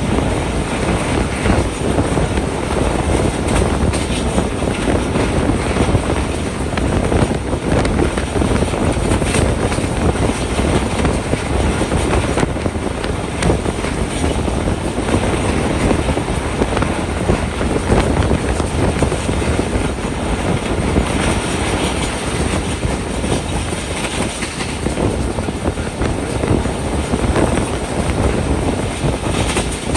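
Passenger train running at speed, heard from aboard a coach: a steady, loud rumble of wheels on rails.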